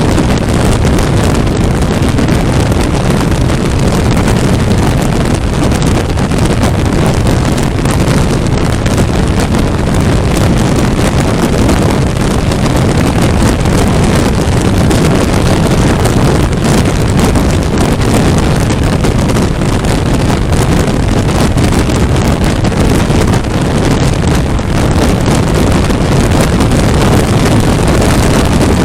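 Loud, steady wind noise on the microphone of a 400cc motorcycle riding at highway speed, with the motorcycle's running sound buried in it.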